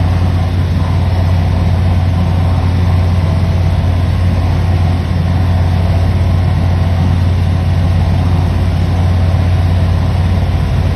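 Fishing boat's engine running steadily at idle, a constant low drone.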